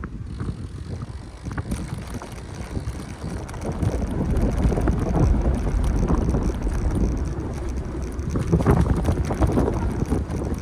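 Wind buffeting the microphone of a camera riding on a moving bicycle, a low rumble with street noise beneath, growing louder about four seconds in.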